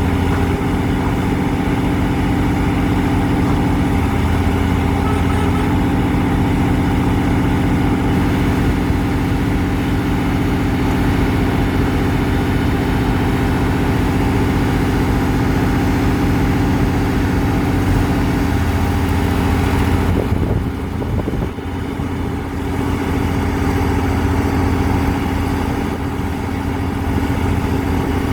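Heavy diesel engine of a pile-driving rig running steadily at idle, with a brief drop in level about two-thirds of the way through.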